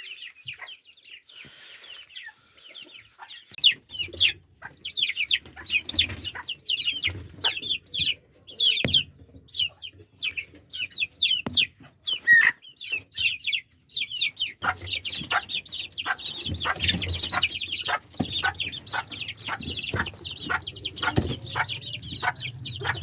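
Fancy chickens in a cage clucking, many short high calls overlapping, growing busier and almost continuous in the second half. Sharp clicks are mixed in among the calls.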